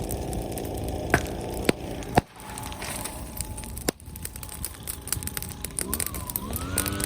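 Wood fire crackling, with four sharp pops in the first four seconds. Music comes in near the end, rising into a steady chord.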